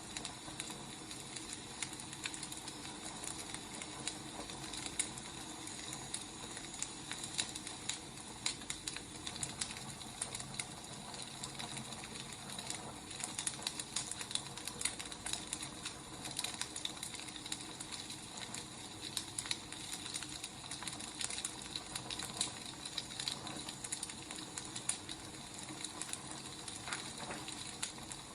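Wood fire crackling: a steady hiss with many irregular, sharp pops and snaps.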